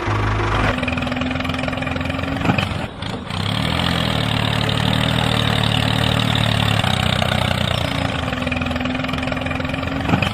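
Engine running steadily, with a sharp click and a brief dip in level about two and a half seconds in, and another click near the end.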